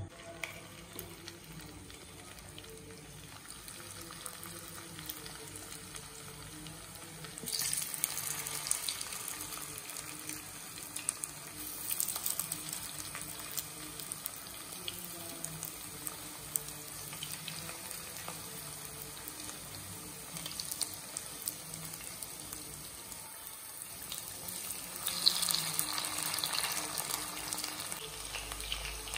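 Marinated chicken pieces frying in hot oil in a non-stick wok: a steady sizzle with scattered crackles, growing louder at moments as more pieces go in.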